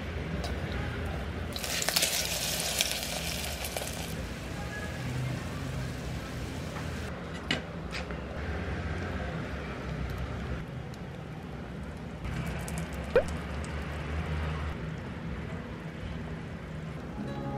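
Kimchi pancake batter frying in oil in a nonstick pot, sizzling steadily, with a louder burst of sizzling about two seconds in and a couple of light knocks later on.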